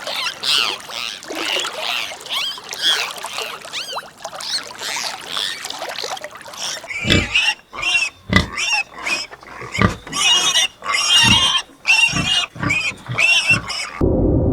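Animal calls: many overlapping pitched cries for about seven seconds, then a series of separate short calls, each with a low thump, ending abruptly near the end.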